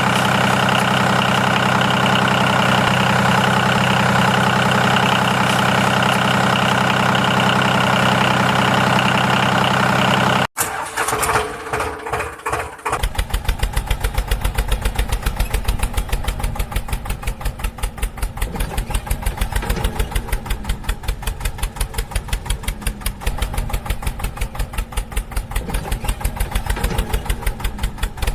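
Tractor engine running with a steady, even hum that cuts off abruptly about ten seconds in. After a couple of seconds of stuttering it settles into a rapid, rhythmic idling chug.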